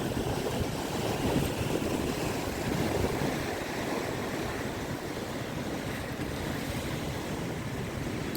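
Rough monsoon sea: surf washing in steadily, with gusting wind buffeting the microphone.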